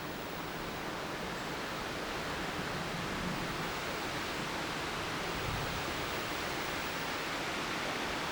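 Wind rushing steadily through trees, with some low rumble of wind on the microphone, slowly getting louder: the wind is starting to pick up ahead of a severe thunderstorm.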